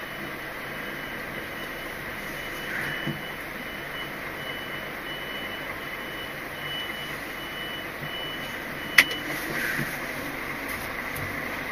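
A vehicle's reversing alarm beeping steadily and evenly over a low engine rumble. The beeping stops about nine seconds in, at a single sharp click.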